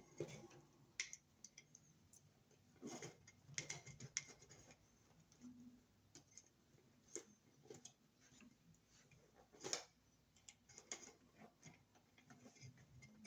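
Faint, irregular clicks and light rustles of stiff white house wires being handled and lined up in an outlet box, ready to be twisted together.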